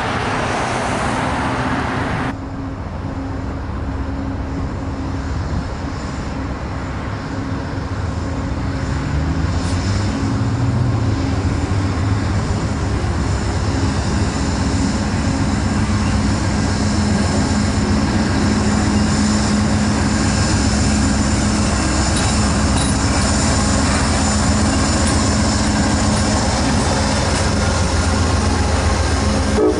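A diesel passenger locomotive's engine drones as the train approaches, growing gradually louder, with its engine note rising for a few seconds early on. Before that, a different, noisier background cuts off sharply about two seconds in.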